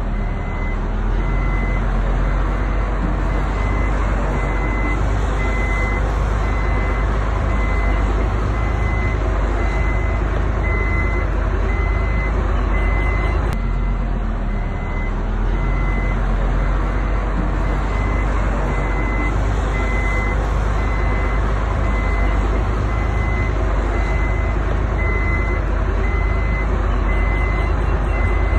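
Heavy diesel construction machinery running steadily, with a reversing alarm beeping over it about once a second.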